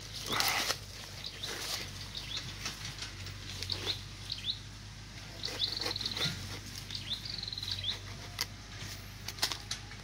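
Small birds chirping repeatedly with short high chirps, two of them breaking into quick trills, alongside a few sharp knocks and scrapes of a knife cutting into the rind of a jackfruit.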